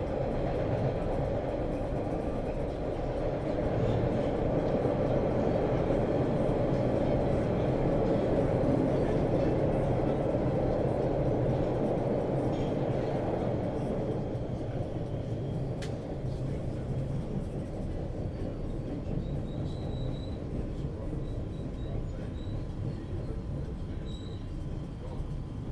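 Subway train running, heard from inside the car: a steady rumble of wheels and motors that quietens from about halfway through, with faint high thin tones near the end.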